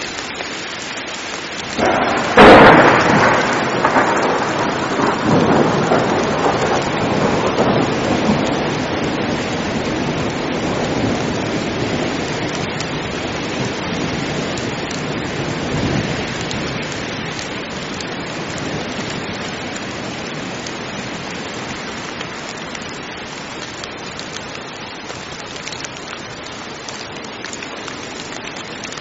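Steady heavy rain with a thunderclap: a sharp crack about two seconds in, the loudest moment, that rolls and slowly dies away over the next ten seconds, with a second, weaker roll of thunder later on.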